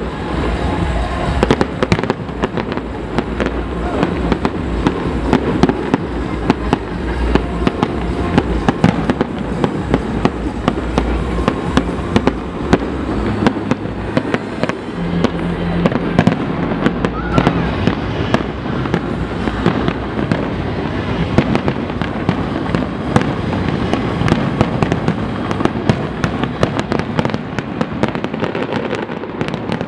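Fireworks display: a dense, unbroken run of bangs and crackles from shells bursting, over a steady low rumble.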